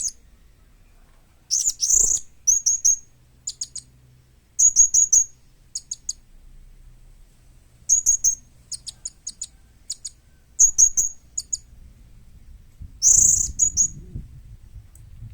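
Young blue-crowned hanging parrot (serindit) calling: very high, thin, sharp chirps in quick clusters of several notes, repeated about every second or two with short pauses between.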